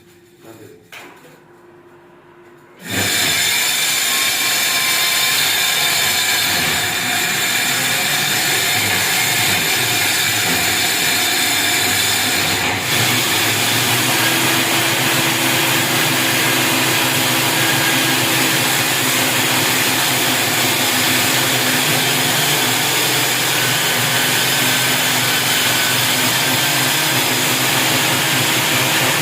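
A power tool starts about three seconds in and runs steadily and loudly without a break, as when a hole is being drilled or cut during an air-conditioner installation.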